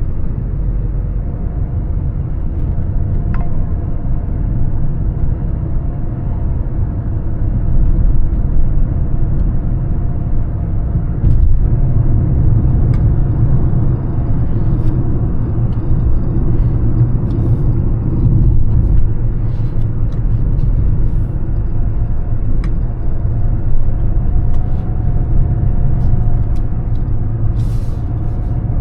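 Mercedes-Benz W211 E320 CDI diesel engine running with tyre and road rumble while driving, a steady low rumble. A faint steady whine sits over it, with a few light clicks scattered through.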